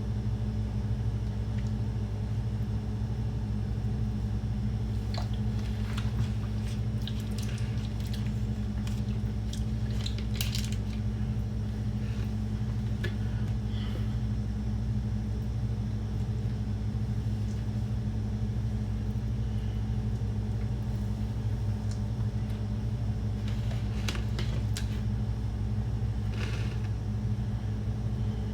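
A steady low hum, with scattered light clicks and taps about five to eleven seconds in and again near the end.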